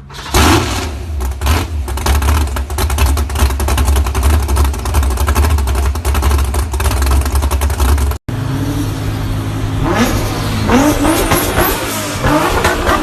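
Loud car engine and exhaust running hard with a heavy low rumble. About eight seconds in it cuts to another engine revving up in rising sweeps.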